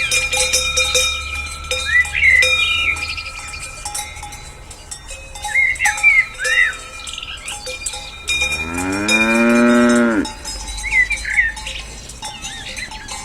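Cowbells ringing on grazing cattle. About eight and a half seconds in, a cow moos once, a long call that rises and then falls in pitch.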